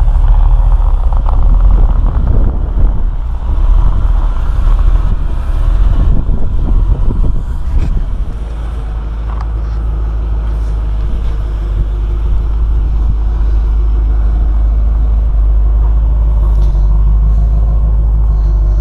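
1987 Corvette's 5.7-litre V8 running through its stock exhaust after a cold start in freezing weather. It is uneven and louder for the first eight seconds or so, then settles into a steady idle.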